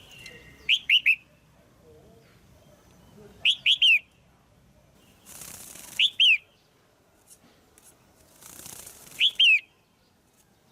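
Female red-whiskered bulbul calling: four groups of two or three quick, sharp notes, a group every two to three seconds. A second-long rustle comes just before the third and fourth groups.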